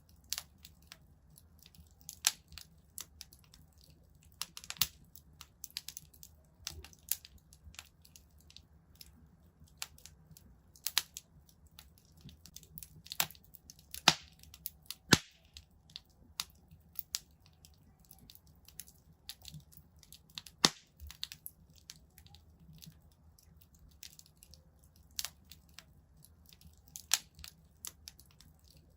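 Wood fire crackling in a fireplace: irregular sharp pops and snaps, a few much louder than the rest, over a faint steady low rumble.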